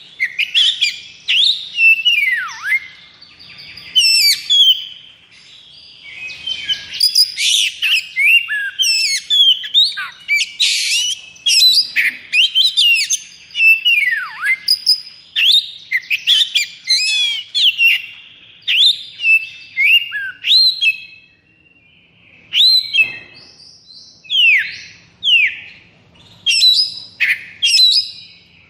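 Oriental magpie-robin (kacer) singing a fast, almost unbroken song of sharp whistles, downward-slurred notes and chattering trills, in the aggressive, nonstop "konslet" style used to provoke other birds. There is a brief pause about two-thirds of the way through.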